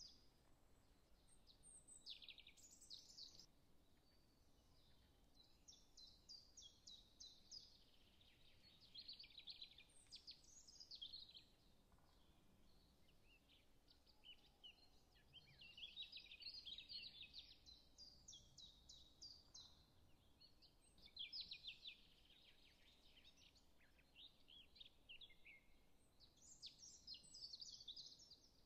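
Faint birdsong: short phrases of rapid high chirps and twitters that come back every few seconds.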